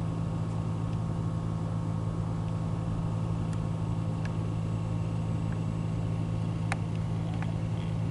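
Vehicle engine idling with a steady low hum, with a few faint clicks.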